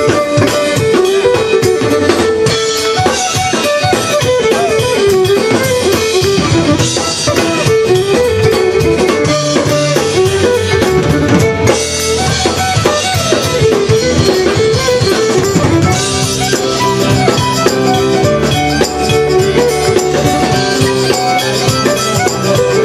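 Music from a band with guitar and drum kit, a melody over a steady beat.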